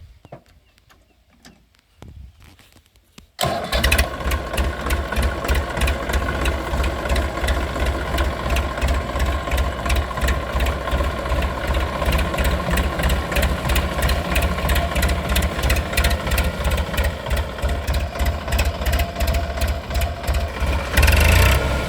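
A tractor's diesel engine running with an even pulsing beat, cutting in suddenly about three seconds in after a few faint clicks, and getting louder near the end.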